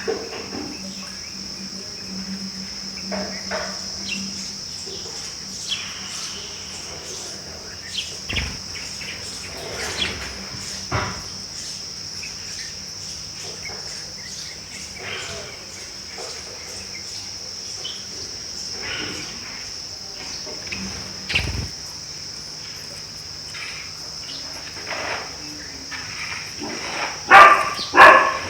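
Steady high-pitched insect chirring throughout, with scattered short chirps and knocks. Near the end loud repeated bursts begin, a dog starting to bark.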